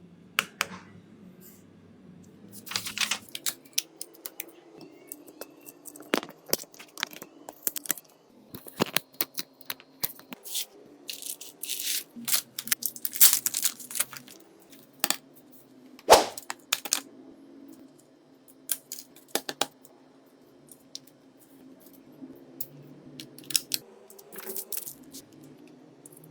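Irregular sharp clicks, taps and scrapes of small tools and parts being handled during a smartphone repair, over a faint steady hum.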